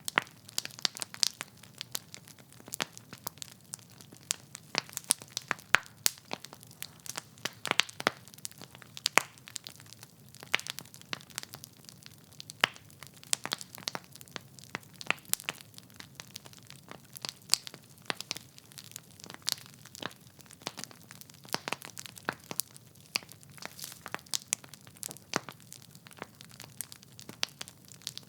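Wood fire in a fireplace, logs crackling and popping in a quick irregular stream of sharp snaps over a faint hiss.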